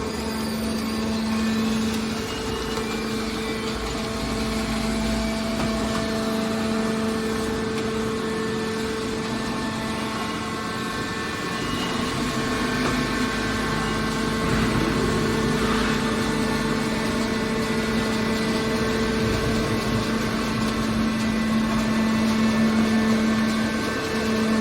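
Hydraulic scrap steel baler's power unit running with a steady hum and a low rumble.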